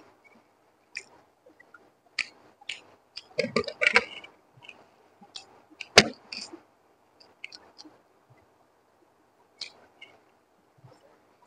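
Close-miked eating sounds of fried rice and egg: scattered mouth clicks and smacks while chewing, with a denser run of wet chewing noises about three to four seconds in and one sharp click about six seconds in.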